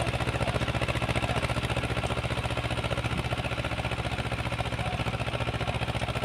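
Uralets mini-tractor engine running steadily with an even, fast pulse while it drives a rotary tiller through the soil.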